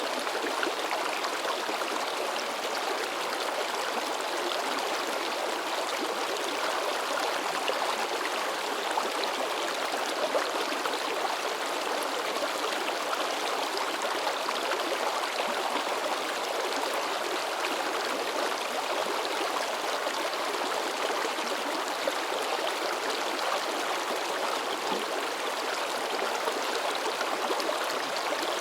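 A shallow mountain river babbling and splashing over rocks. The sound is a steady, unbroken rush of water.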